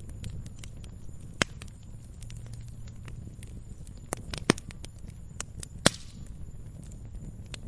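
Wood campfire crackling: irregular sharp pops and snaps, three of them noticeably louder, over a low steady rumble.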